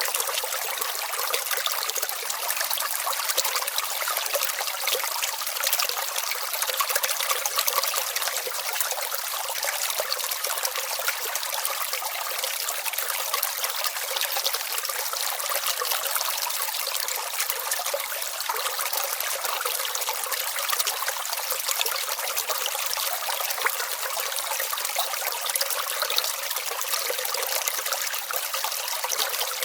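Small stream trickling and babbling steadily, a thin, bright water sound with no low rumble.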